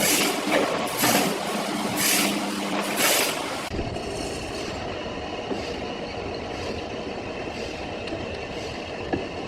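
Sawmill saw cutting through a large log. For the first four seconds the cut comes in rhythmic hissing surges about every three-quarters of a second over a low hum. About four seconds in it changes suddenly to a steadier, quieter hiss.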